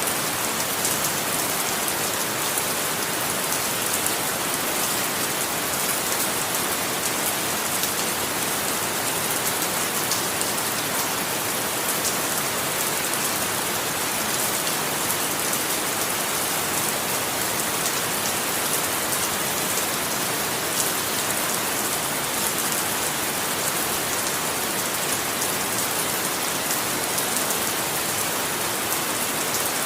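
Steady heavy rain falling, a dense even hiss of drops with fine ticks of individual drops through it.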